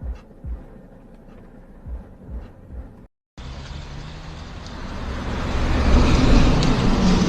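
Motor vehicle noise: soft low thumps at first, then, after a brief dropout, steady road and engine noise that grows steadily louder.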